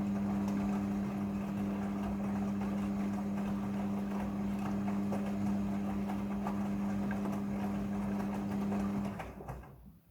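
Midea front-loading washing machine running, a steady motor hum under a rough rattling, churning noise with small clicks. It cuts off near the end.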